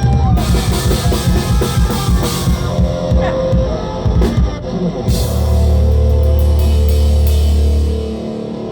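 Live rock band playing loud, with drum kit and guitars. About five seconds in, a heavy low note is held for around three seconds, then eases off near the end.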